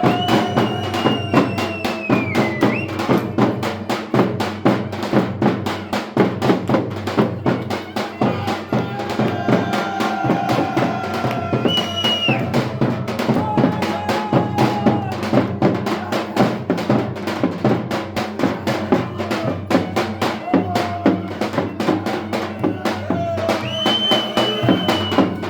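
Folk dance music played for a wedding: a drum keeps a fast, steady beat under a melody instrument playing long held notes that bend and slide in pitch.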